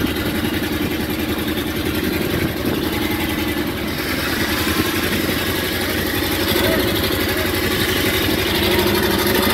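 4x4 vehicle's engine running steadily as it is driven in reverse up a chute.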